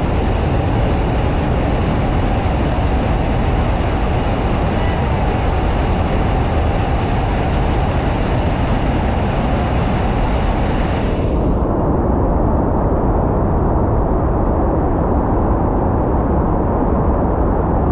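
Loud, steady roar of rushing water, the pour of a waterfall. About two-thirds of the way through, the hiss drops away abruptly, leaving a muffled low rumble.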